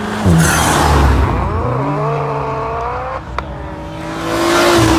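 Car engines revving and accelerating hard. The pitch climbs and drops through gear changes, with a loud surge of rushing noise shortly after the start and another near the end, as cars pass close.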